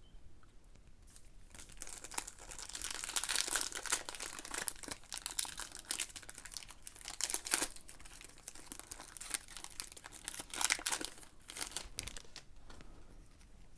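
Trading card pack wrapper being torn open and crinkled by hand, a dense crackling with several louder crackles.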